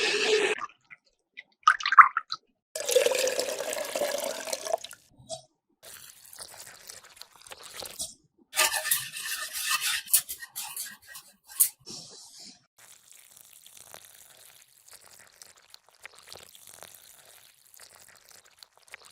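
Kitchen sounds of making cake batter: liquid being poured and mixed in a bowl, in several separate spells with short pauses and a sharp click a little past the middle, then only faint handling noise for the last several seconds.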